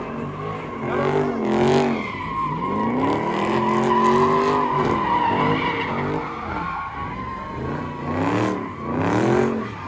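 Car engines revving hard, their pitch rising and falling again and again, over a steady high-pitched tyre squeal as the cars spin their tyres on the pavement.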